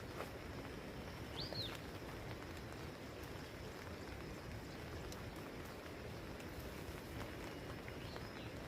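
Steady patter of rain with scattered drips, and one short bird whistle that rises and falls about a second and a half in.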